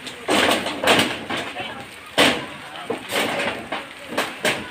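Irregular sharp knocks of hammering during roof repair, a few blows spaced unevenly, with people talking in the background.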